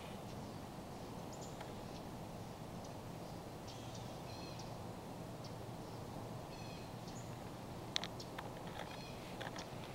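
Birds giving short, high calls every second or so over a faint steady background hiss, with a few sharp clicks near the end.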